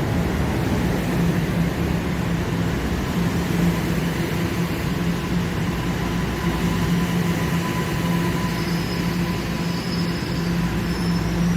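TTC subway train running: a steady low hum over continuous rumbling noise, with faint high-pitched whines joining about two-thirds of the way through.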